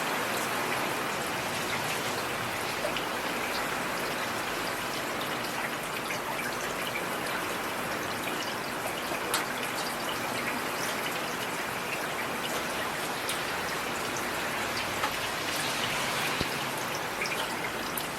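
Heavy rain falling steadily, a dense hiss sprinkled with sharper individual drop impacts.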